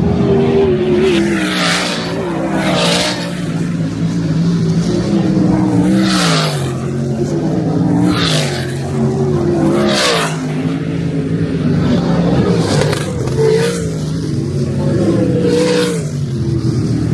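A field of dirt-track sprint cars running around the oval. Their V8 engines rise and fall in pitch as they back off and accelerate through the turns, and cars rush past close by again and again.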